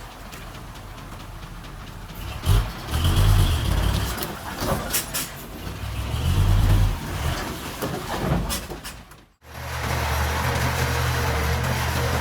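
Heavy diesel earthmoving machinery at work: an engine surging unevenly with a few sharp knocks and clanks. About nine seconds in it cuts off abruptly and is followed by a diesel engine running steadily.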